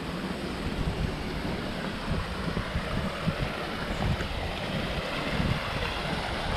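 Steady rushing of a small stream's flowing water, with wind buffeting the microphone in irregular low rumbles.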